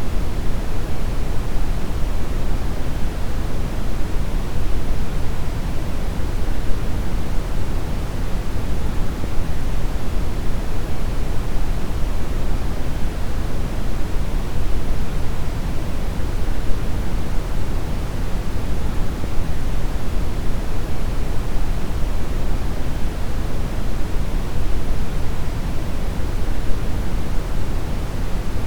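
Steady brown noise: an even, deep rumbling hiss, strongest in the bass and falling away toward the treble, with no changes.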